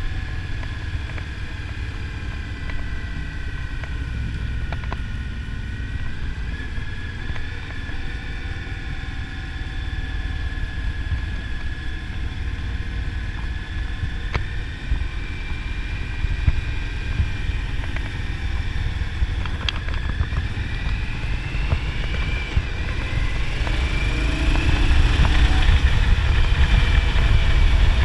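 Motorcycle on the move, with wind buffeting the microphone over the engine's running note; it grows louder over the last few seconds.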